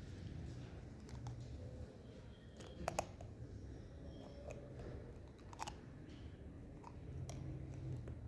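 Faint scraping and scattered sharp clicks of a hand carving instrument trimming a model tooth, over a low steady hum. The loudest click comes about three seconds in.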